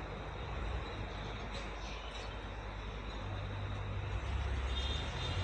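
Mahindra tractor's diesel engine running steadily with a low hum, a little louder over the last second or so.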